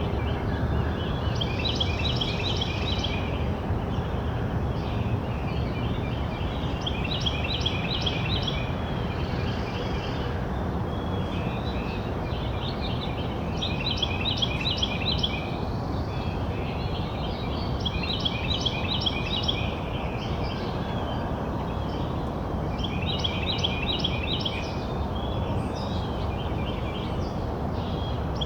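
A songbird singing about six phrases of quick, high repeated notes, a few seconds apart, over a steady low background rumble.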